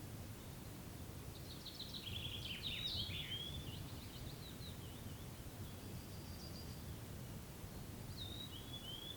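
A songbird singing a quick, jumbled phrase of high notes about a second in, then a short descending phrase near the end, over a steady low background rumble.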